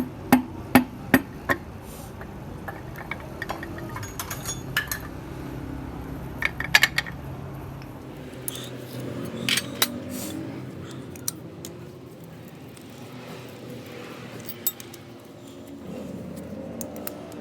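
Metal clinking and tapping: four sharp taps in quick succession at the start, then scattered lighter clinks of metal on metal.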